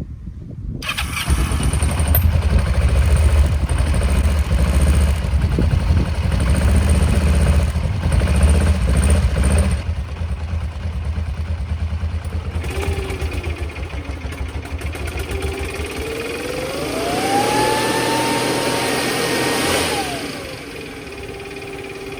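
Kawasaki KLE 500 parallel-twin engine starts about a second in and runs with a deep, pulsing rumble. A Stihl backpack leaf blower, piped into the bike's air intake, then comes in as a whine that rises sharply, holds and drops back. Toward the end the motorcycle engine's rumble fades out: it stalls with the blower forcing air into the intake.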